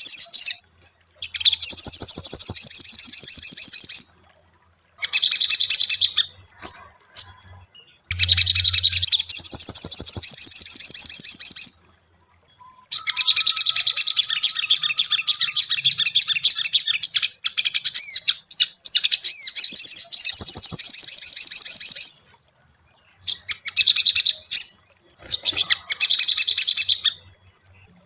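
Sogon (sogok ontong) songbird singing in long bursts of rapid, high twittering chatter, with short pauses between phrases.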